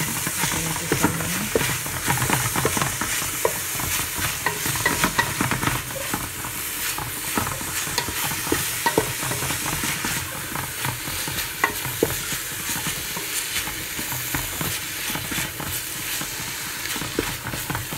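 Ground meat and chopped onion sizzling in oil in an aluminium pot, stirred with a wooden spatula. Frequent light scrapes and taps of the spatula on the pot sound over a steady sizzle.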